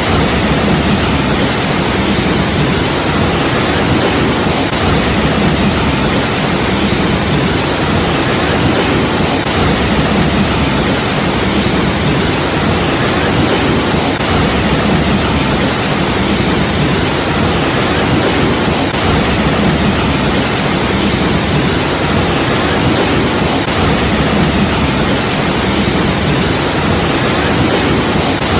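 Waterfall rushing steadily: a dense, unbroken hiss of falling water with no distinct splashes or changes.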